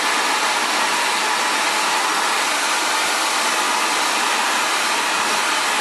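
Xtava Allure 2200-watt ionic ceramic hair dryer running steadily, an even blowing noise with no change in speed.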